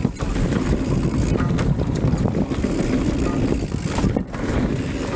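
Wind rumbling on an action camera's microphone and a downhill mountain bike's tyres and frame rattling over a dirt trail during a descent, with many small clicks and knocks; the noise drops briefly about four seconds in.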